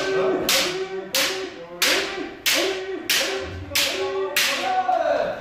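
Bamboo shinai striking kendo armour in quick succession, a sharp crack about every two-thirds of a second, seven in a row. Drawn-out kiai shouts sound between the strikes.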